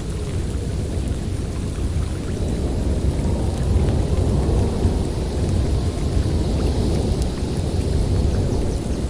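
Snowstorm wind blowing as a dense, low rushing roar that swells a few seconds in and eases again.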